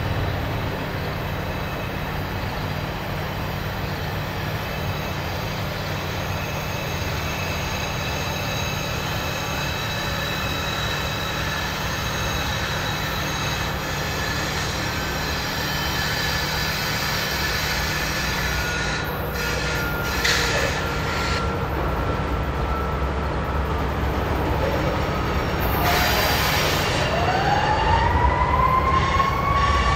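Train with its diesel locomotive engines running steadily, a low rumble with a steady hum. Near the end an emergency vehicle siren starts up, its wail rising in pitch.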